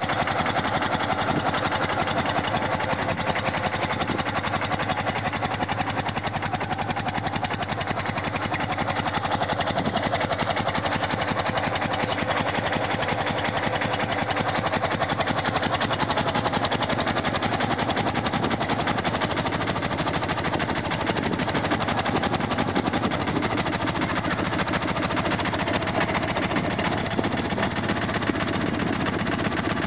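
1965 BMW R50/2's air-cooled flat-twin engine idling steadily while still cold, just after a cold start.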